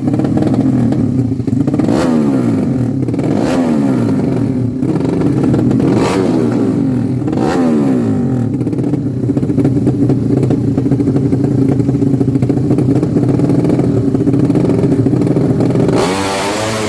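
Tuned drag-racing motorcycle engines running loud and steady, with four short rev blips in the first eight seconds, then a held note that changes abruptly near the end.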